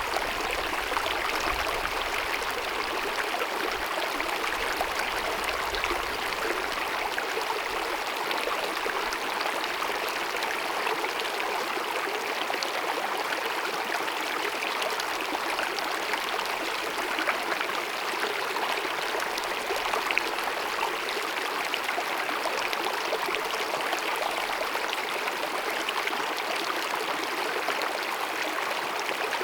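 Small mountain stream babbling and cascading over rocks, a steady rush of running water.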